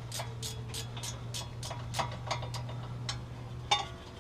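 Ratchet wrench clicking in quick, uneven runs, a few clicks a second, as it backs out a wheel hub mounting bolt. The loudest click comes near the end.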